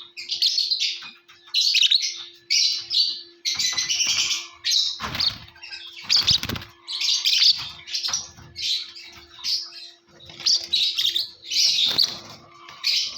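Lovebirds chattering in a run of shrill, harsh chirps, short bursts coming about once or twice a second. A few low rustling thumps sound about halfway through.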